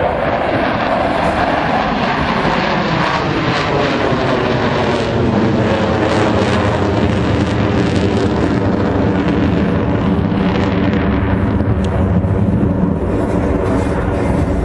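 Airplane engine noise from an aircraft flying past, loud and steady, with a pitch that falls over the first few seconds.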